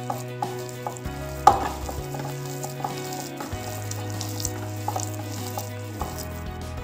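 Hands squishing and kneading a mashed boiled-potato filling with chopped onion and mayonnaise in a bowl, making sticky, crackling squelches, with a sharper squelch about a second and a half in. Soft background music plays underneath.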